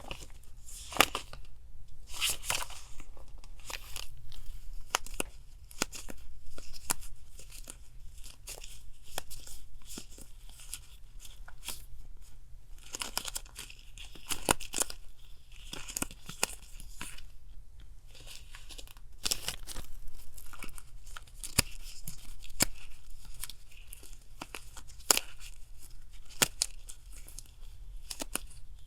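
Paper being handled for collage journaling: tearing, rustling and crinkling, broken by small sharp clicks and taps, in irregular spells. A steady low hum runs underneath, from a refrigerator near the desk.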